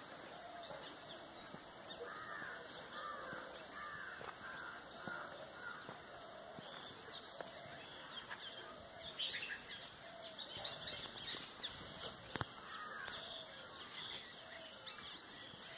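Wild birds calling and chirping in the surrounding forest, with a run of about half a dozen repeated calls a couple of seconds in. One sharp click about twelve seconds in.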